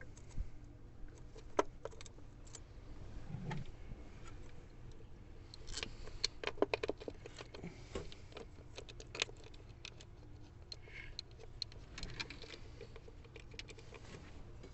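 Scattered light clicks and small metallic rattles of tools and parts being handled while an ignition coil is fitted in an engine bay, busiest in the middle of the stretch.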